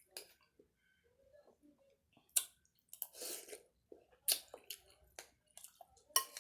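A person chewing food close to the microphone: a string of short sharp mouth clicks and softer moist bites, several over a few seconds.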